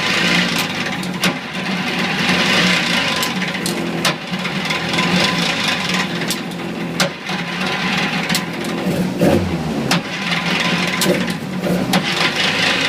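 Mazda MX-5's four-cylinder engine running at a steady idle, with scattered sharp ticks and clicks over it.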